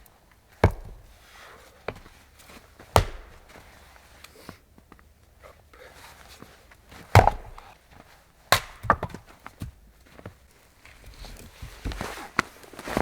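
Wood being chopped: about half a dozen sharp strikes at uneven intervals, the loudest about seven seconds in.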